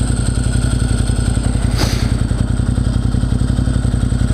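Motorcycle engine idling steadily with an even, fast pulse, and a brief sharp click about two seconds in.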